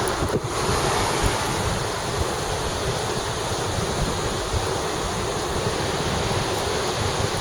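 Steady rushing wind noise buffeting the microphone, with a low rumble underneath, as on a moving bike ride.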